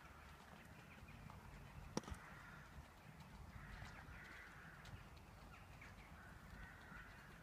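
Faint outdoor quiet with distant birds calling now and then over a low rumble, and a single sharp click about two seconds in.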